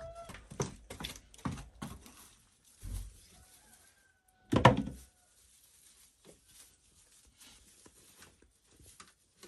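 A series of irregular knocks and thumps, the loudest about four and a half seconds in, with a brief rising squeak at the very start and faint ticks later on.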